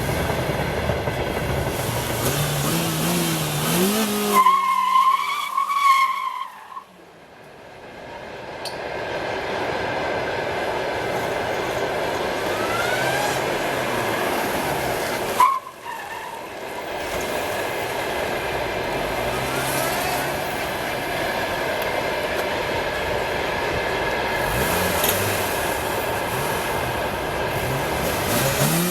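Peugeot 406 1.8-litre engine revving up, then its tyres squealing in a wavering high whine about four seconds in and again at the very end. Between them run long stretches of loud engine and tyre noise, with one sharp knock about halfway.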